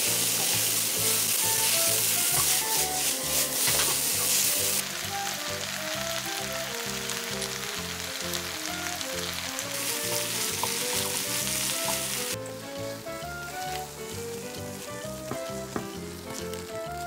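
Spicy pork and vegetables sizzling in a hot pan as they are stirred and tossed with a silicone spatula. The sizzle is loudest for the first five seconds, then drops, and drops again about twelve seconds in.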